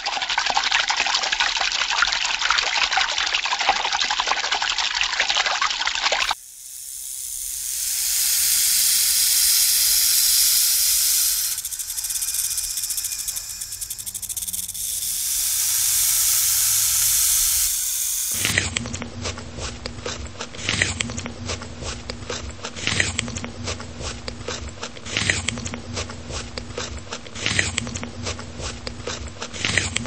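Aquarium water bubbling, then a rainbow boa hissing in three long swelling breaths, then a steady low hum with repeated sharp clicks.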